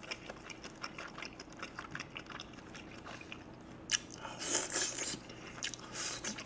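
Close-up eating sounds: chewing with many small wet mouth clicks, then, about four seconds in, a sharp click followed by louder biting and sucking as meat is gnawed off a beef rib bone.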